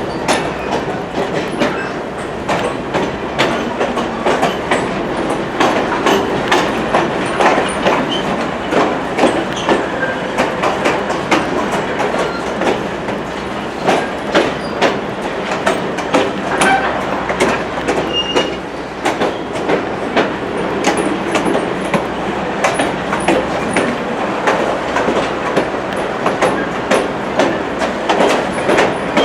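Excursion train rolling along jointed track: a steady clickety-clack of wheels over the rail joints, mixed with a running rumble and a few brief, high wheel squeals.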